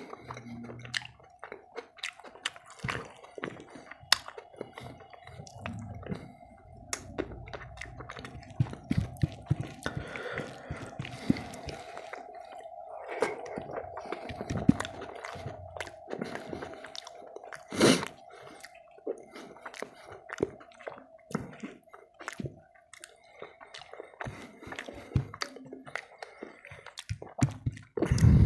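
Close-up wet chewing and lip smacks of rice and boiled lentil dal eaten by hand, with squishing as the rice and dal are mashed together with the fingers. A faint steady hum runs underneath.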